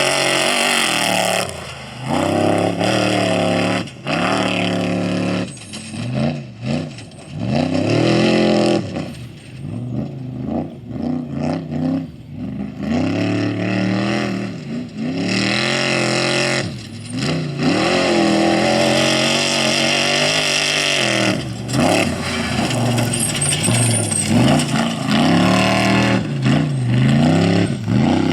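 Off-road race vehicles' engines at high revs, the pitch climbing and dropping over and over as the vehicles accelerate, shift and lift off. There are several short dips in loudness, most of them in the middle.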